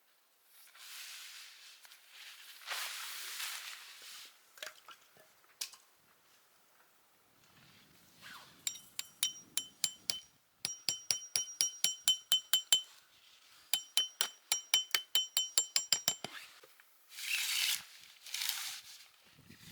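Rapid runs of sharp metallic clinks, about five a second, each ringing with the same high tone, in three bursts through the middle. Soft rustling comes before and after them.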